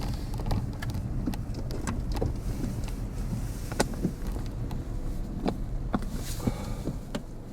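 Car driving, heard from inside the cabin: a steady low road rumble with scattered sharp clicks and ticks.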